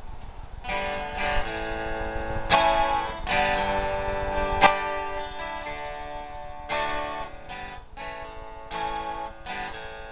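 Acoustic guitar strumming a song's introduction, a chord struck every second or so.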